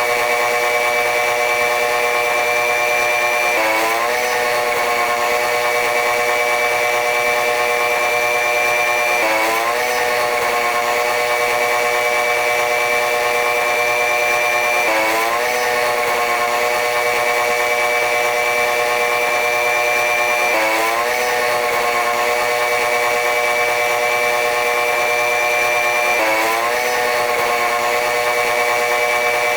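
Running noise of a diesel-electric-hauled passenger train, played back sped up, which makes it a high, buzzing whine of several stacked tones. The pitch drops suddenly and then climbs slowly, over and over, about every five to six seconds.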